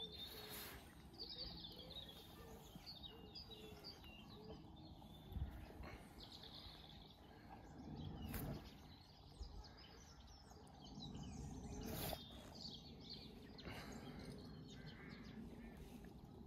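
Faint birdsong: scattered high chirps and short twittering phrases over a low, steady outdoor background. A few brief soft knocks come through, one about a third of the way in and two more later.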